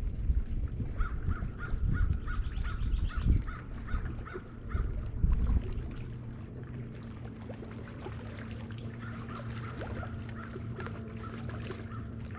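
A bird calling in a quick series of repeated notes, twice, over low rumbling wind gusts. About halfway through, the gusts die down and a steady low hum carries on under the calls.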